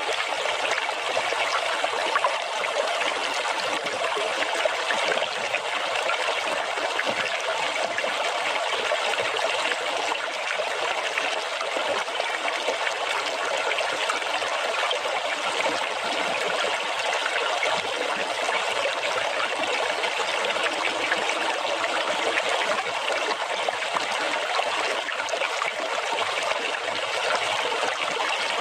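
Running water splashing and trickling in a steady, unbroken rush.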